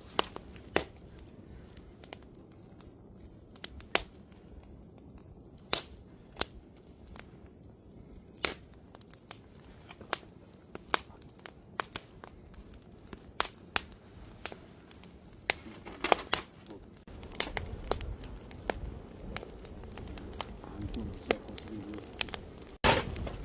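Wood fire crackling, with sharp irregular pops and snaps from the burning logs over a low steady hiss; a low rumble swells about three-quarters of the way through.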